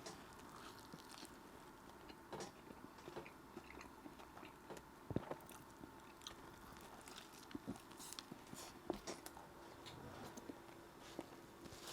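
Faint chewing of a saucy burger: scattered soft mouth clicks and smacks, with one sharper click about five seconds in.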